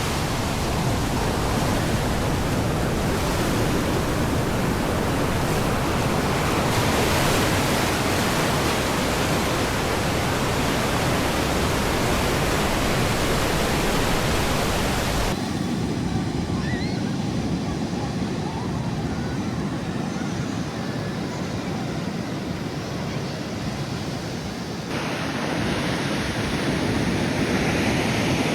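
Pacific surf washing on the beach, a steady rushing noise with wind on the microphone. The sound changes abruptly about halfway through and again near the end.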